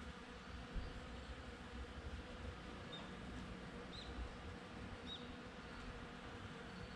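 Bees buzzing steadily while foraging among cherry blossoms. A bird gives a few short high chirps about three, four and five seconds in.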